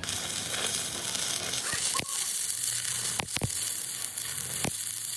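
Electric arc welding: a steady hiss that starts abruptly, with several sharp clicks through it.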